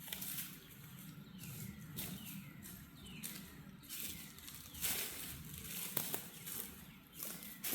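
A bird calling over and over with short downward-sliding whistles, about once a second, over irregular rustling noises that are loudest about five and six seconds in.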